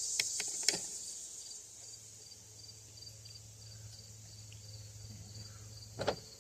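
A few light clicks in the first second and a louder knock about six seconds in, as small parts and tools are handled on a chainsaw being taken apart, over crickets chirping steadily and a low hum.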